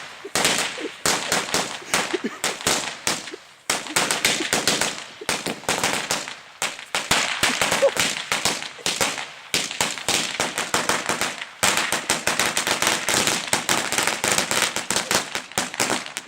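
A string of firecrackers going off: a rapid, continuous crackle of sharp pops with a couple of brief lulls.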